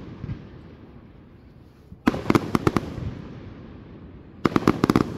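Aerial fireworks bursting overhead: two volleys of rapid sharp cracks, the first about two seconds in and the second near the end, each followed by a fading rumble.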